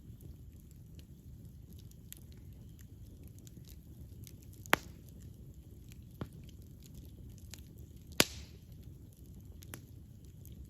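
Wood fire burning with a steady low rumble of flame and frequent small crackles, broken by two loud sharp pops about five and eight seconds in and a smaller one between them.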